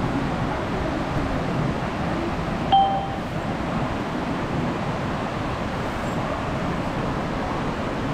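A single short electronic beep from a ticket vending machine, about three seconds in, over steady background noise.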